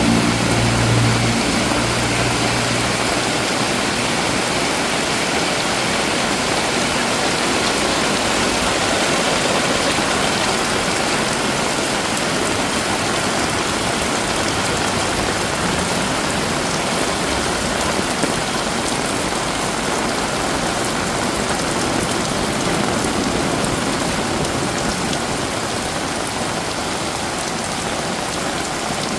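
Heavy tropical rain falling steadily, a dense even hiss. A low engine hum fades out in the first few seconds.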